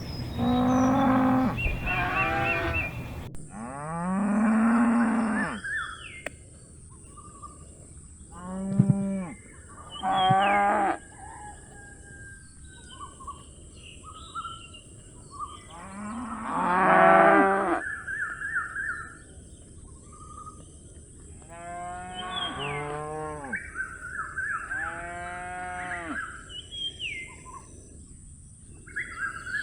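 A calf mooing repeatedly: about eight loud bawls, each a second or two long, coming at irregular gaps of a few seconds.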